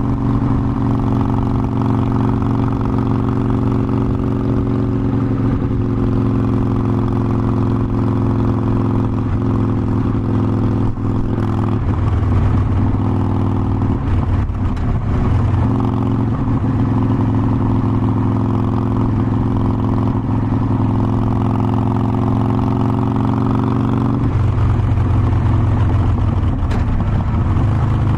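Harley-Davidson Forty-Eight Sportster's air-cooled 1200 cc V-twin running under way on the road, a steady engine note. The pitch shifts about twelve seconds in and drops lower about twenty-four seconds in.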